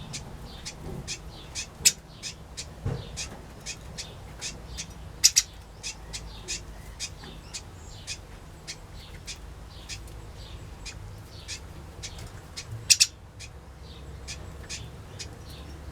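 A mixed aviary of finches, waxbills and turquoise parrots calling: a constant stream of short, high chirps, several a second, with a few louder calls about five seconds in and again near thirteen seconds.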